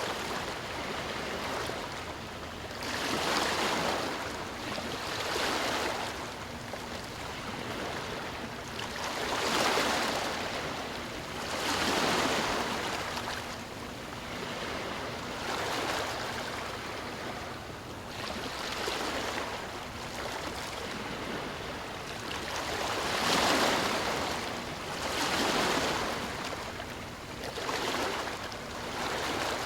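Ocean surf: small waves breaking and washing ashore one after another, a swelling rush every two to three seconds over a steady hiss of water.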